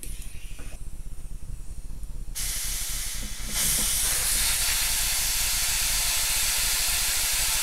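Compressed air hissing steadily from an air-gun nozzle into a brake caliper, forcing out its seized piston. The hiss starts suddenly a couple of seconds in and gets louder about a second later.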